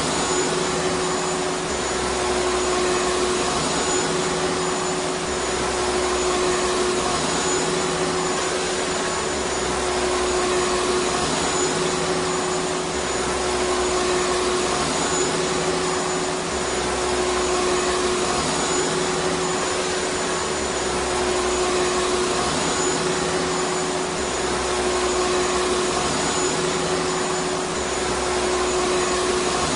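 Vacuum cleaner running steadily: a constant motor hum under a hiss of rushing air, swelling slightly every two to three seconds.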